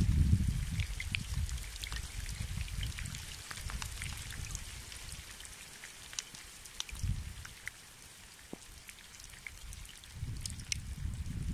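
Scattered raindrops ticking irregularly, with low, uneven gusts of wind rumbling on the microphone, strongest near the start and again near the end.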